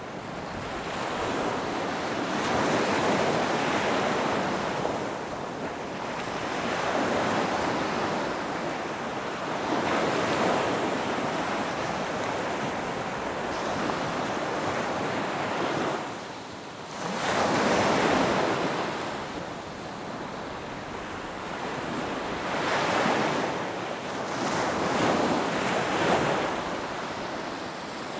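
Ocean surf on a beach: waves breaking and washing up the shore, the rush swelling and fading every few seconds.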